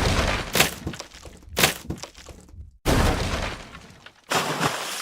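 A series of crashing, breaking impacts, about one a second, each sudden and then fading away.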